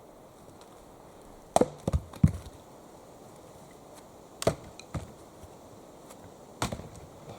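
Axe chopping wood: a quick run of three sharp strikes about one and a half to two seconds in, then single strikes about four and a half, five and six and a half seconds in.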